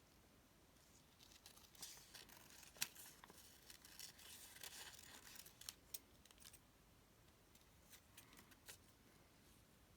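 Scissors snipping through paper while fussy cutting around a stamped image: quiet, irregular snips with paper rustling, one sharper snip about three seconds in.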